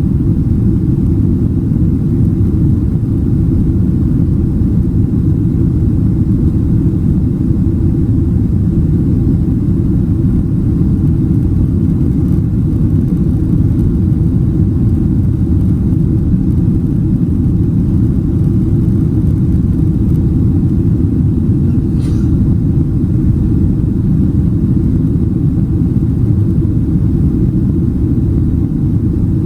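Loud, steady low rumble of a Boeing 767-300ER heard from inside the passenger cabin, with one faint click about two-thirds of the way through.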